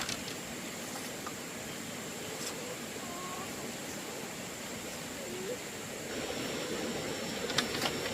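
Steady rushing noise, with a few faint short gliding animal calls and a couple of sharp clicks near the end.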